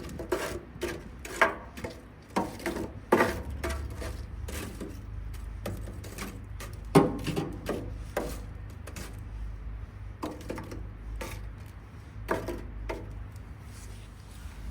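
Irregular clicks and knocks from food being handled and turned on a charcoal grill, with a few sharper knocks among them and a steady low hum underneath.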